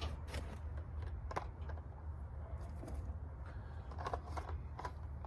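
A few light clicks and knocks of things being picked up and handled, over a steady low hum.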